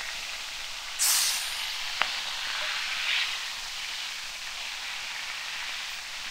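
Bacon frying in a cast-iron pan over a fire: a steady sizzle with a louder spitting surge about a second in, a sharp crack at two seconds and a smaller surge near three seconds.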